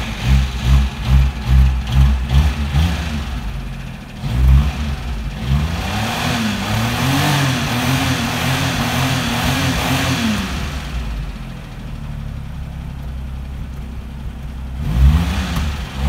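A small car's 850cc three-cylinder engine, heard at the tailpipe. A quick run of throttle blips is followed by revs that climb and are held for several seconds, then drop back to idle, with two more blips near the end.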